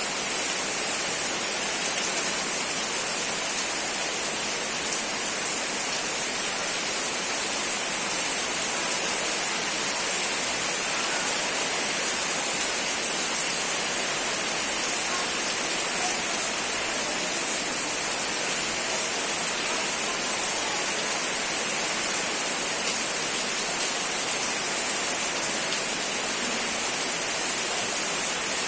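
Steady rain falling: a constant, even hiss with no change in level.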